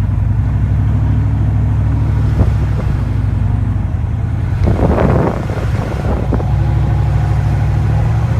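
6.5-litre Detroit turbo diesel V8 of a 1993 Chevy 1500 pickup running steadily while driving, heard from inside the cab, with a brief rushing burst about five seconds in.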